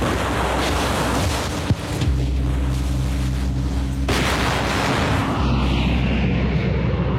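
Continuous rumbling booms of bomb explosions over a low steady drone, with a sharp crack a little under two seconds in and a fresh surge of blast noise about four seconds in.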